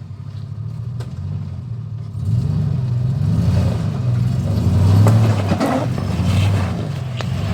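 Off-road vehicle's engine running and revving. It gets louder about two seconds in, then the pitch rises and falls as the throttle is worked.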